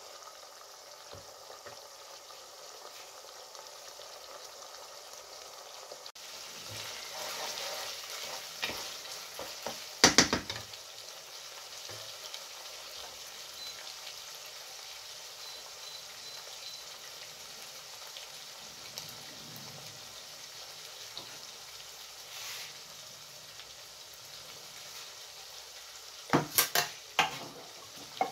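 Fresh sausage and tomato sauce sizzling and bubbling in a non-stick pot on an induction hob as a wooden spoon stirs it. Sharp knocks of the spoon against the pot come about ten seconds in and again a couple of times near the end, and a few faint beeps from the hob controls sound midway.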